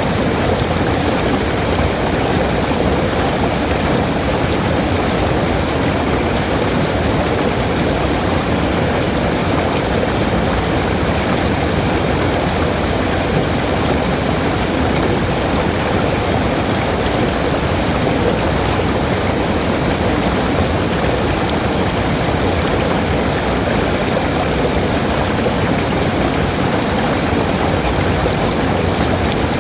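Waterfall: a steady, unbroken rush of falling water, strongest in its lower tones.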